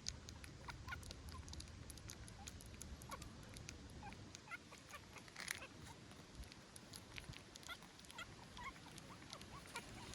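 Newborn puppy squeaking: faint, short, high-pitched squeaks that come more often in the second half, with scattered small clicks.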